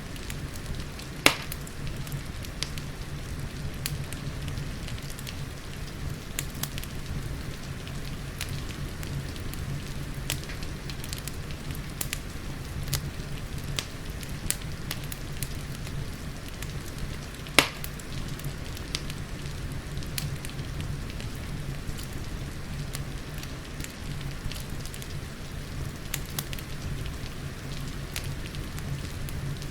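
Crackling fireplace with steady rain: a constant hiss and low rumble, scattered small crackles, and two loud sharp pops, one about a second in and one a little past halfway.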